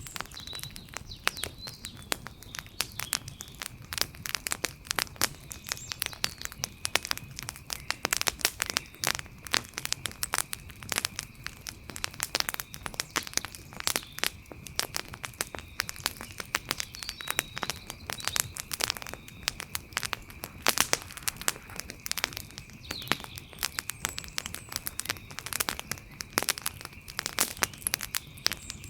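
Wood campfire crackling, with frequent sharp irregular pops and snaps. A steady thin high tone runs behind it, and a few faint short chirps come and go.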